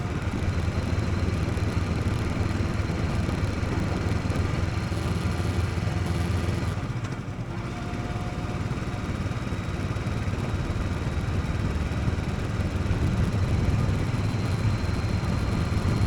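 Motorcycle engine running steadily while riding. It eases off briefly about seven seconds in, then picks up again.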